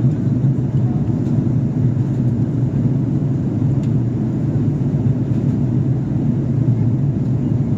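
Airliner's steady low rumble of engines and airflow after takeoff.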